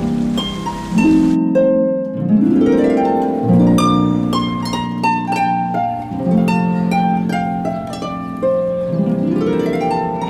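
Background music led by harp, with plucked notes and upward sweeping runs of notes about two seconds in and again near the end.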